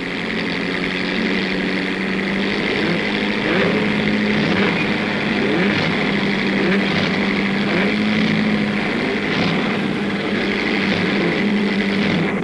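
Several vintage racing-car engines running together on the starting grid before the flag, a steady drone with repeated short blips of the throttle rising and falling over it.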